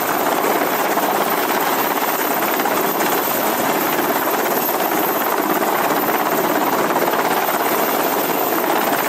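Sikorsky SH-60 Seahawk helicopter in flight: steady, loud rotor and turbine noise with no change in level.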